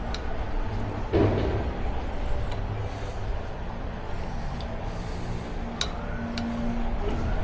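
Steady low rumble of a water-shooter boat ride under way, with scattered clicks, a short louder burst about a second in and a brief steady tone near the end.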